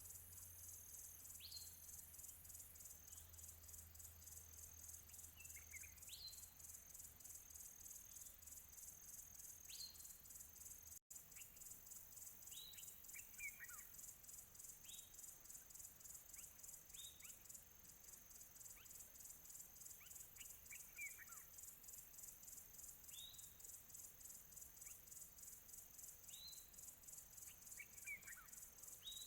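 Crickets or similar insects trilling steadily in a high, fast-pulsing chorus, with birds giving short chirps every second or two, some as quick falling notes. The sound cuts out for an instant about a third of the way through.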